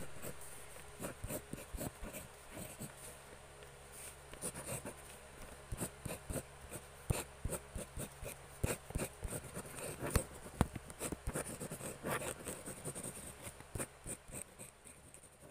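Pencil scratching on paper in short, irregular strokes with small clicks, over a faint steady hiss.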